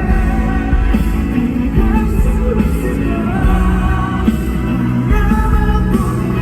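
Live amplified concert music recorded from the crowd: a male voice singing held notes over a loud, bass-heavy backing.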